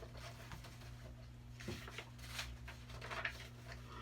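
Faint paper rustling as a picture book's pages are handled, a few soft brushes over a steady low hum.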